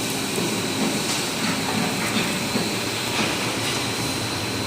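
Small plastic moulding machine for colour testing running steadily: an even mechanical noise with a thin high whine over it and a few light, irregular clicks.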